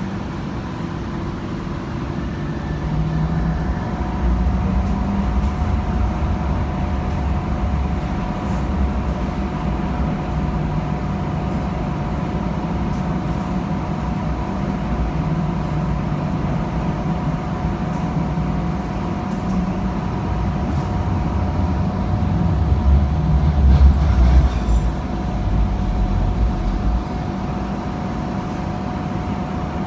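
Hong Kong Light Rail first-generation (Phase I) light rail vehicle in motion, heard from inside the car: a steady low rumble from the running gear with a steady motor whine. It grows louder about three quarters of the way through, with a brief rattle.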